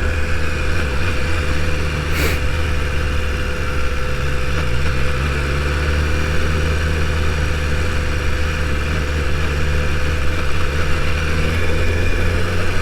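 BMW S1000RR's inline-four engine running steadily at low revs while cruising in second gear, with a brief click about two seconds in.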